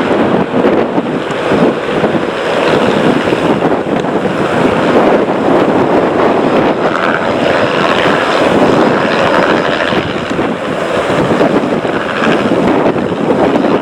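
Steady rush of jet airliner engines, with wind buffeting the microphone.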